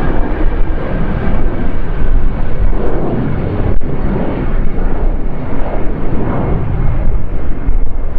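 Jet airliner engines running loud and close, a rough rumble with a faint steady whine above it.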